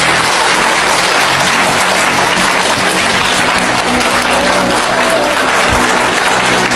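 Audience applauding steadily, with background music underneath.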